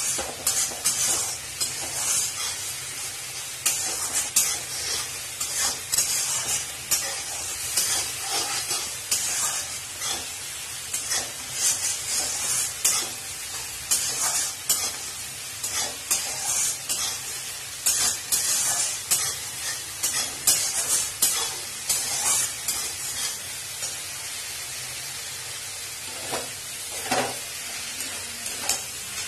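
Spice paste of garlic, tomato, turmeric, chilli and cumin sizzling in oil in a steel wok while a metal spatula scrapes and stirs it in repeated strokes: the masala being fried down (kosha) until cooked. The stirring eases off for a few seconds, then comes back with a few harder strokes near the end.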